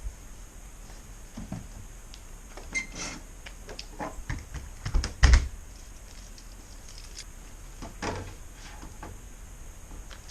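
Irregular clicks, taps and knocks of hard objects being handled, with one heavy thump about five seconds in.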